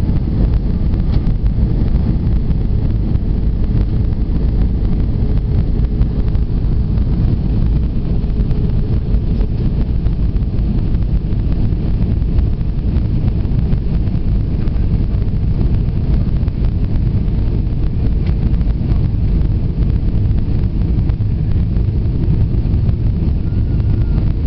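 Steady low rumble of airflow and jet engines inside the cabin of an Airbus A320, with a faint steady hum over it.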